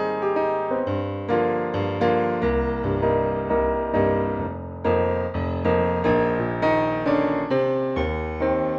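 Background piano music: a light electric-piano tune with a steady beat and a bass line.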